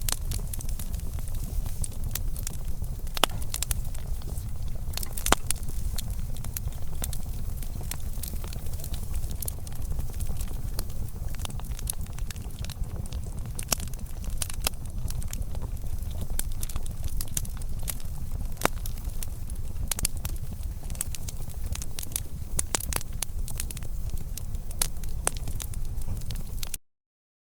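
Wood fire crackling, with many sharp pops and snaps over a steady low rumble; the sound cuts off abruptly near the end.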